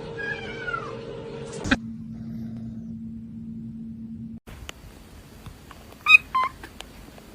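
Cat meowing: one short, falling meow about half a second in, then two short, sharp meows about six seconds in, with a few light clicks around them.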